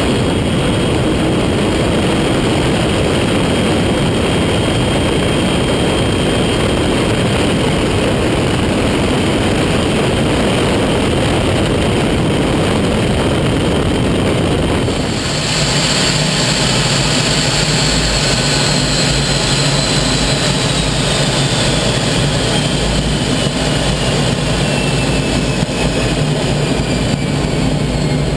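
Canadair CT-33 Silver Star jet in flight, its Rolls-Royce Nene turbojet giving a loud, steady rush of jet noise. About halfway through the sound changes abruptly to a steadier low hum with a high turbine whine that slowly falls in pitch.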